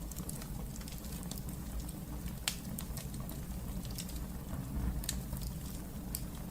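Wood fire in a fireplace crackling, with irregular sharp pops over a steady low rumble of the flames; one pop about two and a half seconds in is louder than the rest.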